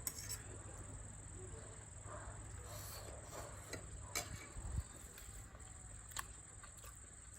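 A steady high-pitched insect chirring, like crickets, runs throughout. A few faint scattered clicks and taps of eating sound over it.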